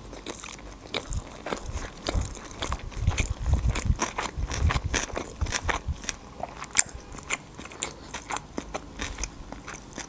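Close-miked chewing of a mouthful of food, mouth closed: a run of wet clicks and crunches, busiest in the middle, with one sharper click near the end.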